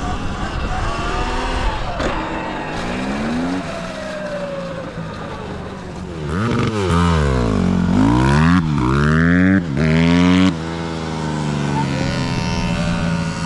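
Dirt bike revving up and down again and again, its pitch rising and falling, loudest from about six seconds in and dropping back sharply near ten and a half seconds, over a steady lower engine hum.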